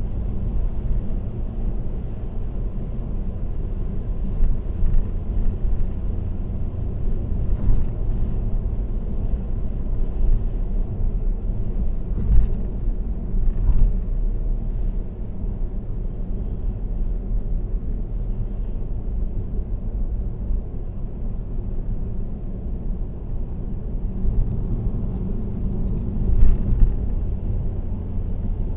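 Steady low rumble of tyre and road noise from a car cruising on an expressway, picked up by a dashcam in the cabin, with a few brief knocks now and then.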